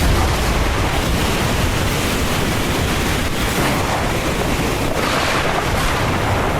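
Heavy rain pouring steadily, with a deep low rumble underneath.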